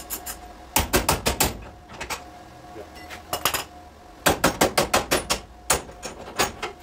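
Light hammer taps on car body sheet metal, in quick runs of several strikes at about six or seven a second with short pauses between runs.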